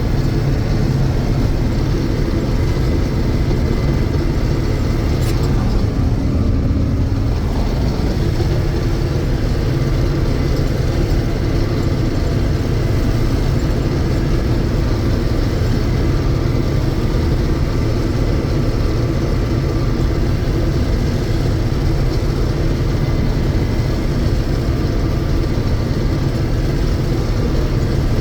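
John Deere 6620 Turbo combine running steadily while harvesting soybeans: a constant, even engine and machinery drone.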